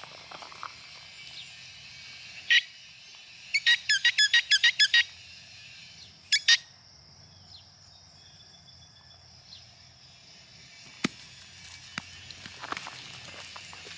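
A bird calling with short high chirps that drop in pitch: one, then a quick run of about nine, then two more.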